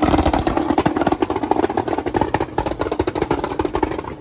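Twin-turbo limo's engine running at steady revs with a rapid, choppy pulsing over its steady note, just after a rev.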